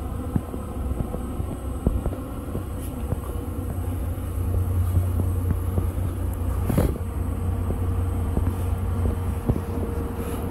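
NJ Transit commuter train and its locomotive running on the embankment bridge, a steady low rumble with a faint steady hum above it. A single sharp knock about seven seconds in.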